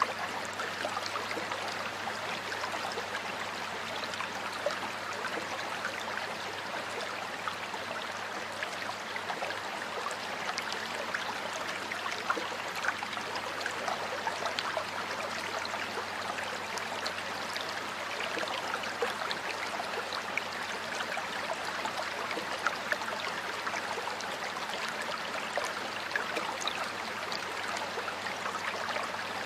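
Water flowing and splashing steadily in a stream, with small gurgles and splashes scattered throughout.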